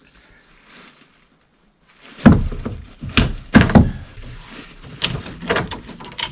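Loud knocks and clunks of tools and PEX pipe being handled while elbow fittings and crimp rings go on, starting about two seconds in after a quiet moment, several hits close together.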